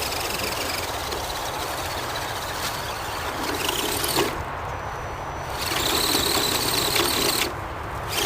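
Axial SCX10 RC crawler's electric motor and gearbox whining in two bursts as the truck is driven, the second longer, starting about six seconds in.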